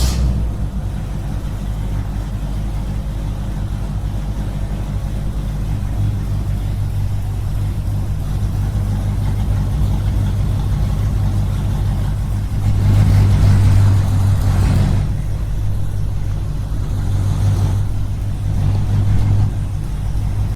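A small engine running steadily with a low drone, getting louder for a couple of seconds about two-thirds of the way through.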